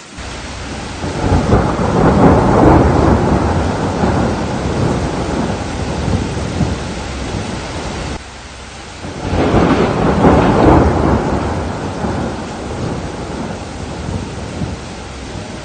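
Two long rolls of thunder over steady rain. The first starts at once, peaks about two seconds in and fades; the second swells about nine seconds in and dies away slowly.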